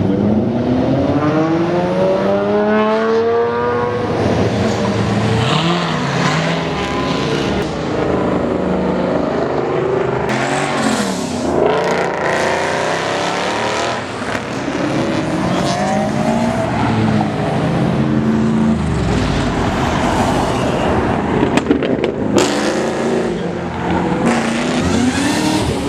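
Cars accelerating past one after another, their engines revving so that the pitch rises and falls repeatedly, loud throughout.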